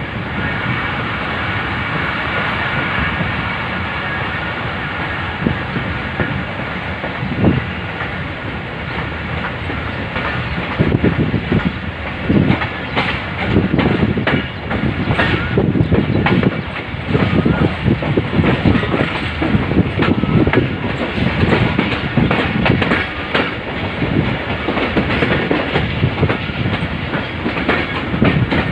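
Karachi Express passenger train running on the rails. A steady rumble for the first third, then a dense, irregular clattering of wheels over the rail joints.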